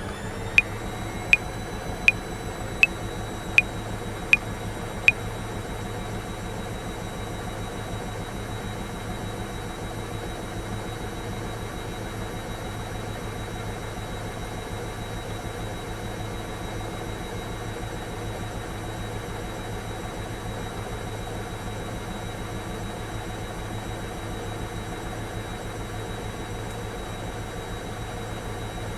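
Washing machine running steadily with a low hum and a high whine that settles to an even pitch right at the start. Over it, metronome clicks at 80 beats a minute sound about seven times in the first five seconds, then stop.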